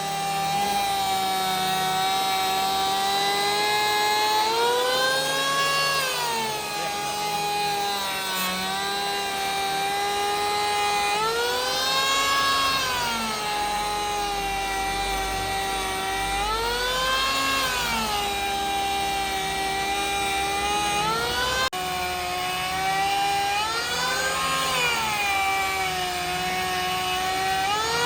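Power tool's electric motor whining steadily while working wood, its pitch swelling up and settling back down about every six or seven seconds.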